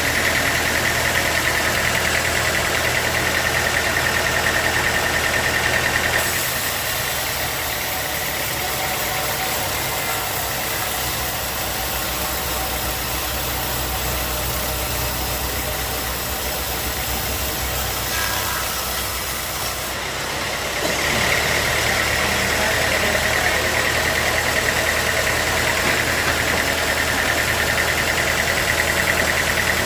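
Sawmill machinery running steadily. A high whine over a motor hum is heard at first. From about six seconds in the whine drops away and the sound turns hissier, then the whine returns about twenty-one seconds in.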